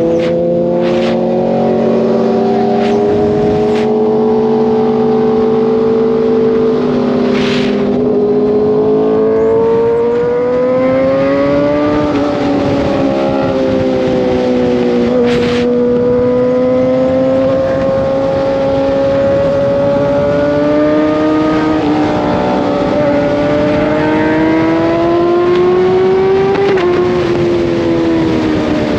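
Kawasaki ZX-6R sportbike's inline-four engine running under way, its pitch slowly rising and falling with the throttle, with a sharper drop near the end. A few brief thumps or gusts hit the microphone in the first half.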